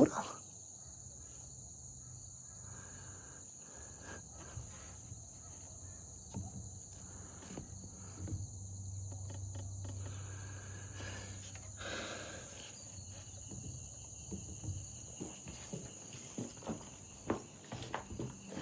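Steady high-pitched insect chorus, with scattered faint clicks and knocks and a brief low hum about halfway through.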